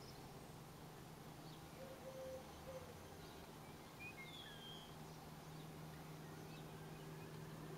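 Faint background birdsong: a few thin, high chirps and a short whistle from small birds, over a low steady hum.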